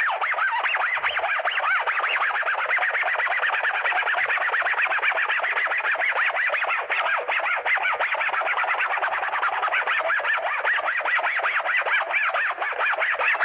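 Harsh noise / power electronics: a dense, unbroken wall of distorted, jittering screech with no bass and no beat.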